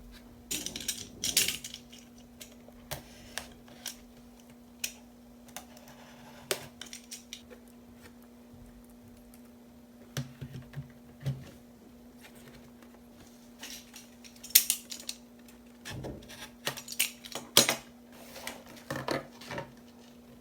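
Plates and cutlery clinking and clattering in irregular bursts of sharp knocks, loudest about a second in and again near the end, over a steady low hum.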